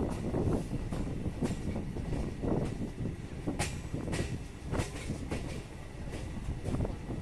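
Electric suburban local train running on the rails: a steady low rumble with irregular sharp clicks and clatter from the wheels and the carriage.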